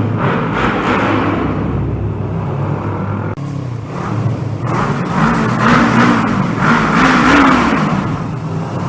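Kawasaki ER-6n 650 cc parallel-twin motorcycle engine running on the road under wind rush. Its pitch rises and falls a few times in the second half as the throttle is worked.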